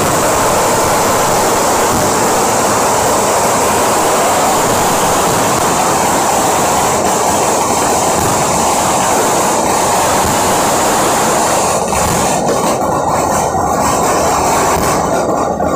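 Church-feast fireworks going off in a continuous barrage, the many bangs merging into one loud, steady roar. It eases a little about twelve seconds in.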